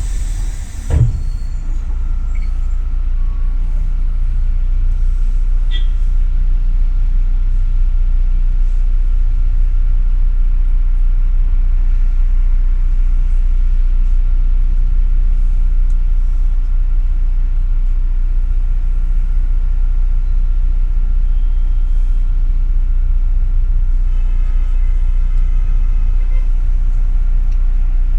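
Steady low engine and road rumble of a double-decker city bus heard from inside the cabin while it drives, with a single low thump about a second in.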